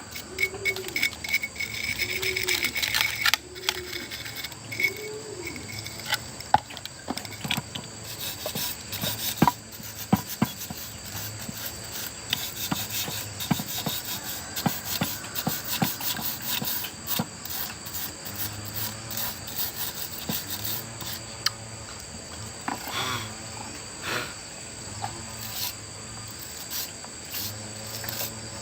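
Scraping and rubbing with scattered sharp knocks, typical of hand work on machine parts, over a steady high whine. A few short rising-and-falling tones come in the first five seconds.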